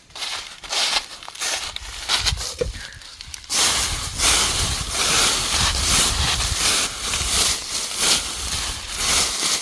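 Dry plant litter crunching and rustling as someone moves through it, in irregular crackles that get denser and louder after about three and a half seconds.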